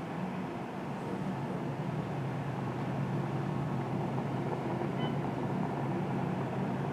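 Steady low hum of distant road traffic.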